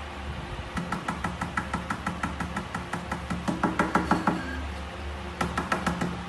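Rapid, even knocking or tapping, about six knocks a second, in a long run and then a shorter run near the end, over a steady low hum.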